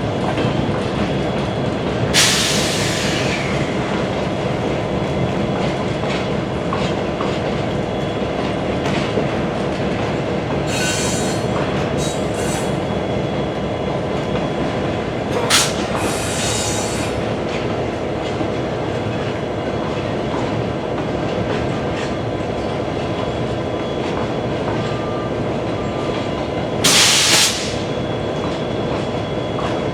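A train rolling past, its cars making a steady rumble and clatter on the rails, with a few brief, sharp high-pitched screeches and bangs from the wheels and cars along the way.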